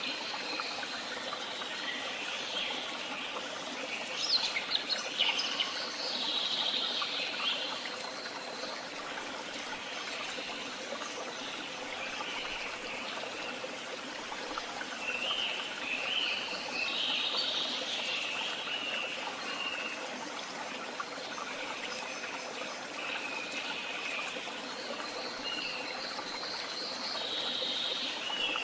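Woodland songbirds singing in separate bursts of chirping phrases over a steady trickle of running water.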